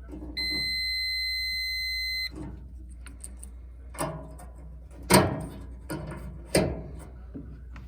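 Multimeter continuity beep: one steady high-pitched tone held for about two seconds, the sign that the circuit being tested is closed. After it come four sharp clicks and knocks of handling, the loudest about halfway through.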